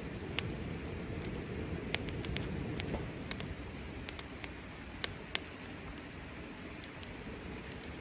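Wood campfire burning with a steady low rush, and irregular sharp crackles and pops from the burning wood, the loudest about five seconds in.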